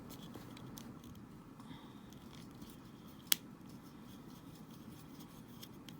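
Quiet handling of small screws and tools during Joy-Con disassembly, with faint ticks and one sharp click about three seconds in.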